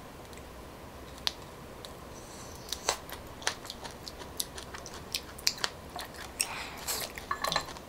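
A person chewing coconut palm weevil grubs (đuông dừa) dipped in fish sauce: a scattered run of sharp mouth clicks and smacks, sparse at first and coming thick and fast from about three seconds in.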